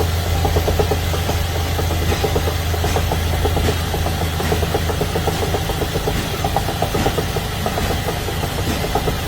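Car engine idling with an abnormal, rapid, even ticking over a steady low hum.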